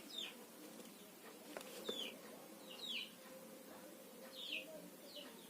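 Faint bird chirps in the background: short, high, falling chirps that come singly or in pairs about once a second, over a faint steady hum.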